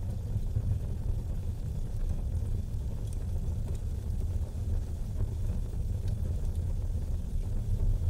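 Wood fire burning in a fireplace: a steady low rumble with a few faint, scattered crackles.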